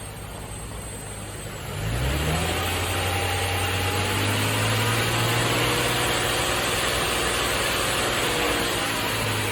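Nissan VQ35DE 3.5-litre V6 engine of a Z33 Fairlady Z running after its overhaul: about two seconds in the engine note rises sharply, then holds at a steady, even speed.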